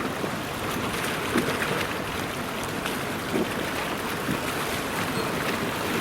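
Wind buffeting the microphone over a steady rush of river water, with a few soft low thumps.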